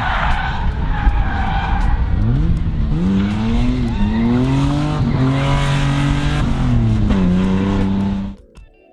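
A drift car's engine revving hard, its pitch climbing, dipping and climbing again and holding high, over the hiss of tyres sliding. It drops back briefly and cuts off suddenly near the end.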